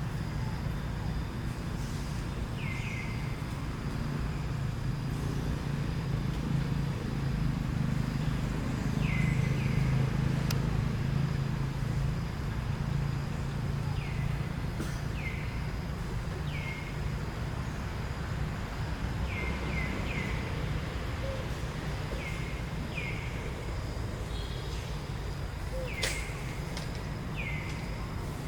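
A series of short, high chirping calls, each falling quickly in pitch, about a dozen scattered through the stretch, over a steady low rumble that swells for a few seconds near the middle. There is a sharp click near the end.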